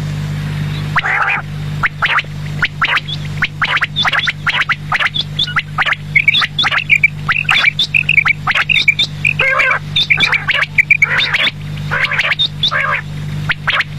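Quail calling over and over in short, sharp notes, some in quick clusters, with a steady low hum underneath.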